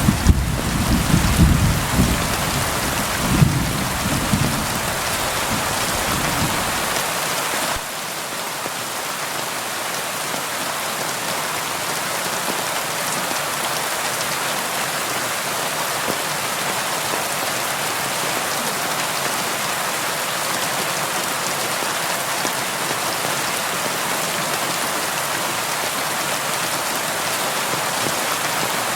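Steady rain falling on a window, with a low rumble of thunder in the first several seconds that stops abruptly about eight seconds in; after that only the even rain remains.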